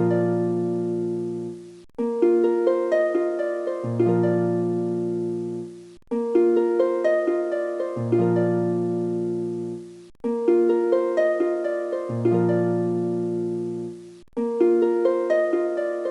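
Background music: a gentle plucked-string melody in a short looping phrase that restarts about every four seconds after a brief dropout, with deeper notes joining in the second half of each phrase.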